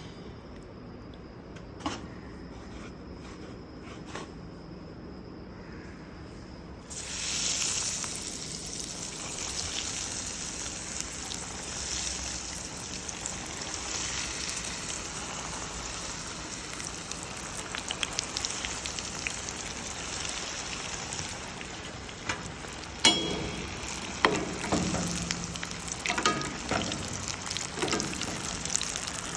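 Food frying in hot oil. About seven seconds in, food goes into the oil and a loud, steady sizzle begins. Near the end, a few sharp knocks and clinks sound over the sizzle.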